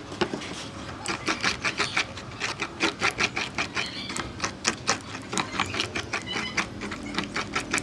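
A rapid, irregular run of sharp taps and knocks, several a second, from tool work on wood.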